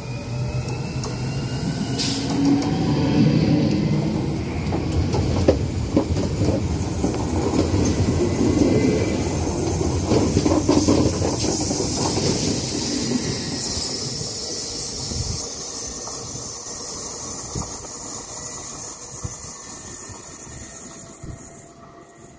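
An Alstom Régiolis TER electric train passes close by. A rising motor whine comes as it approaches, then the louder rumble and clatter of its wheels on the rails as it goes by, and the sound fades steadily as it moves away.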